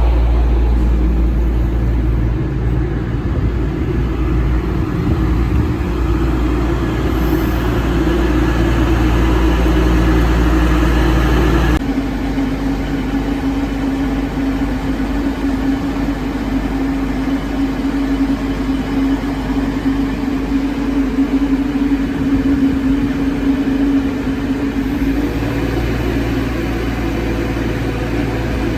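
Diesel passenger train's engines running steadily at the platform, a constant low hum with a held engine tone. The sound changes abruptly about twelve seconds in and then runs steadily again.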